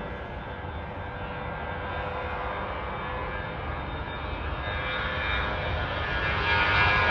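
Airbus A319 jet airliner's engines at takeoff power, a steady rumble and hiss that grows steadily louder and brighter.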